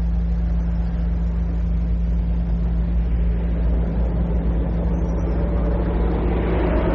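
A motor vehicle's engine running: a steady low rumble and hum, with a rushing noise that grows louder near the end, as heard on an old cassette recording.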